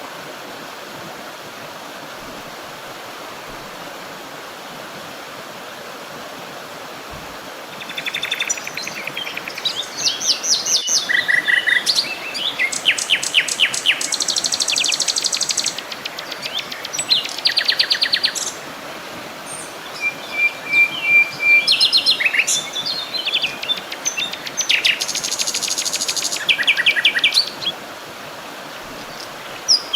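Songbirds singing over a steady hiss of running water: the water alone at first, then from about eight seconds in, bursts of rapid high trills and chirps, several phrases in a row with short gaps.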